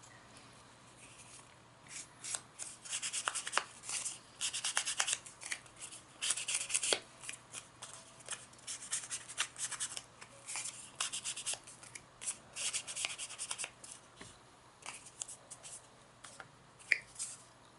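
Paper and card stock being handled and rubbed down by hand: clusters of short, dry rustles and scrapes as cards are slid into place and pressed flat.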